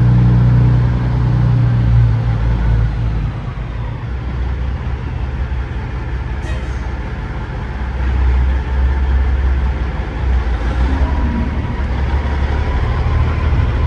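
Semi truck's diesel engine running with a low rumble that swells and eases as the truck maneuvers, with a single click about six and a half seconds in.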